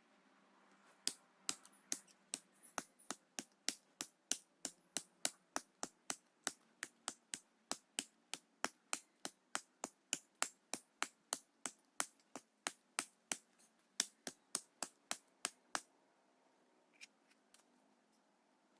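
A long run of sharp, evenly spaced knocks, about three a second, starting about a second in and stopping a few seconds before the end.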